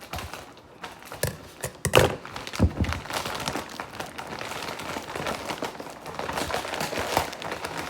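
Packaging crinkling and rustling as it is pulled off by hand to unwrap a new exhaust, with a couple of sharp knocks about two seconds in.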